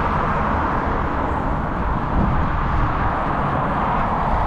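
Steady rush of wind over the microphone with a low rumble underneath, from riding a bicycle along the road.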